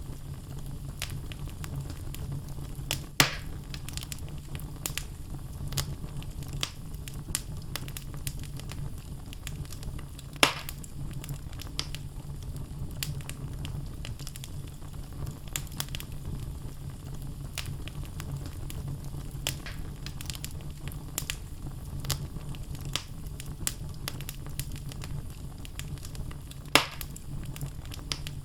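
Wood fire burning in a fireplace: logs crackling with many scattered small snaps over a low steady rumble of the flames, and three louder pops about 3, 10 and 27 seconds in.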